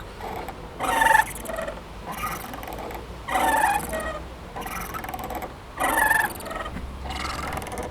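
Playground swing squeaking at its chain hangers, one short squeak with each swing about every two and a half seconds, three times.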